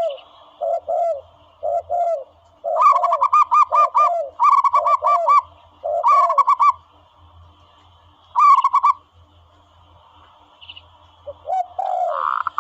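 Recorded dove calls played as a hunting lure. Quick runs of short, clipped cooing notes, about eight a second, alternate with lower paired coos. There is a lull in the second half, and the calls pick up again near the end.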